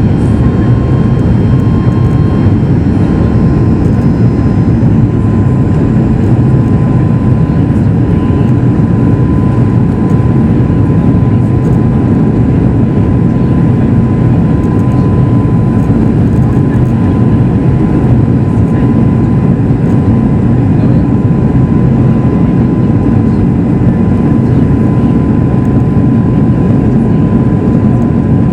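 Steady in-flight cabin noise of a Boeing 737 MAX 8: the CFM LEAP-1B engines and the airflow over the fuselage make a loud, even rumble, with a thin steady whine above it.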